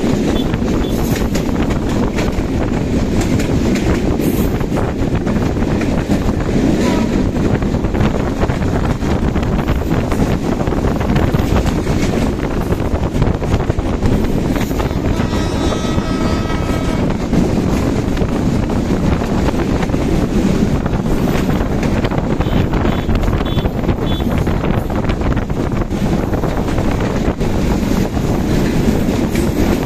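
Bangladesh Railway passenger coaches of the Kurigram Express rolling past at speed on the adjacent track, a continuous low rumble with wheel clatter. It is heard from a moving motorcycle alongside, with wind buffeting the microphone. A horn sounds for about two seconds midway.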